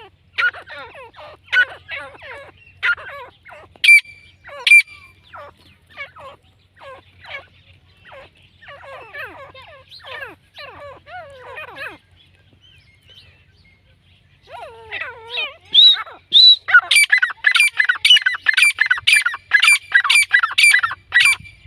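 Grey francolin calling: a run of short, falling chattering notes, a brief pause, then a loud, rapid, even series of repeated calls, about three a second, in the second half.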